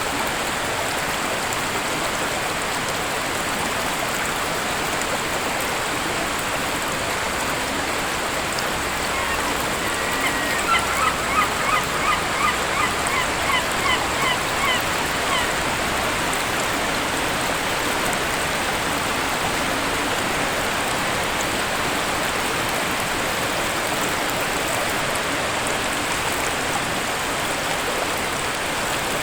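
A waterfall's steady rush of falling water. About ten seconds in, a bird gives a run of about ten short calls, roughly two a second, lasting some five seconds.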